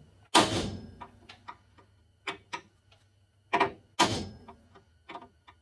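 Hammer blows on steel, driving at a seized rivet in a truck frame that will not move: two heavy ringing strikes about three and a half seconds apart, each just after a lighter tap, with smaller taps and clinks between.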